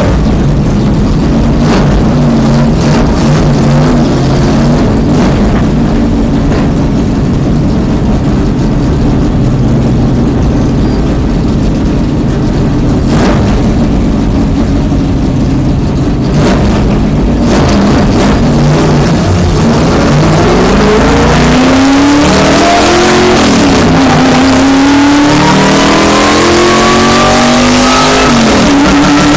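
Race car engine running loud at low speed. From about two-thirds of the way in it accelerates hard through the gears, its pitch climbing and dropping back at each upshift.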